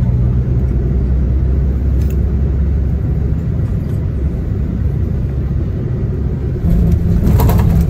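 Shuttle coach's diesel engine and drivetrain heard from inside the cabin while under way: a steady low hum at first that gives way to a broader road rumble. A louder rush of noise comes near the end.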